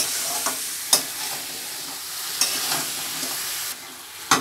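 Chicken pieces sizzling in hot oil in a metal kadhai as they are stir-fried with chilli and turmeric powder, a metal spatula turning them and knocking sharply on the pan about a second in and again just before the end. The sizzle quietens near the end.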